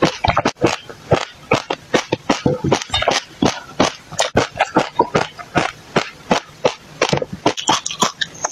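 Close-miked chewing of a mouthful of dry mixed seeds: rapid, irregular crunching and crackling, several crunches a second.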